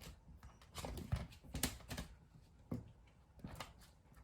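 A string of irregular taps and knocks, several sharp clicks spread unevenly over a few seconds.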